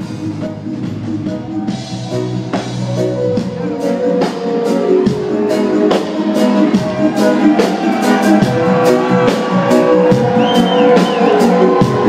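Live reggae band music with drums, bass and guitar, growing louder over the first few seconds and then holding steady.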